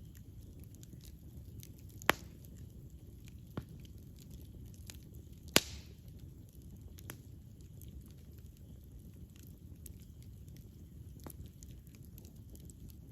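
Wood fire burning with a steady low rumble and scattered small crackles, broken by a few sharp pops of burning wood; the loudest come about two seconds and five and a half seconds in.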